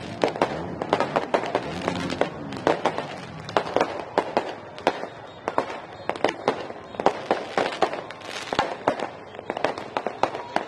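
Many fireworks going off at once: a dense, irregular barrage of bangs and crackles from rockets and aerial shells bursting overhead, several a second with no let-up.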